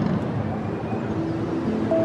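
Car running on the road, a steady engine and road rumble, with faint music coming in partway through.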